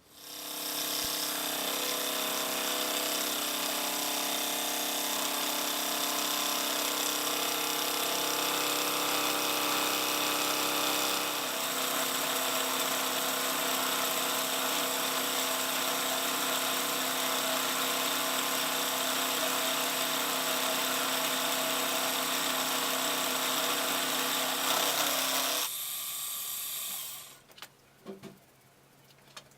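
Electric workshop machine running: it starts up, runs steadily with a whine, changes pitch about a third of the way in, then is switched off and winds down near the end, followed by a few light clicks.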